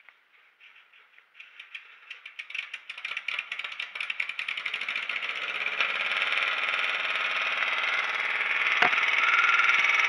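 Car engine running, starting as faint rapid ticking and growing steadily louder into a loud, steady sound over about six seconds, with one sharp click near the end.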